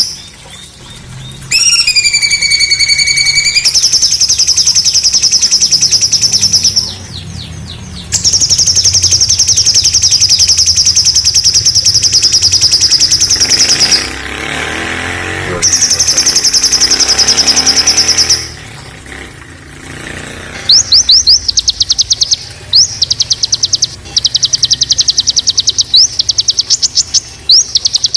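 Songbird singing long, fast trills of sharp, evenly repeated high notes, broken by short pauses, with a few curving whistled notes about two seconds in: the harsh rapid-fire "tembakan" song used as masteran to tutor cage songbirds such as the white-rumped shama.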